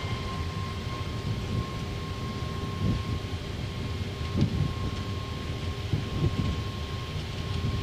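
Airbus A321neo accelerating down the runway at takeoff thrust, heard from the cockpit: a steady low rumble of engines and wheels, with a few short low thumps as the gear runs over the runway surface. A faint steady high tone sits above the rumble.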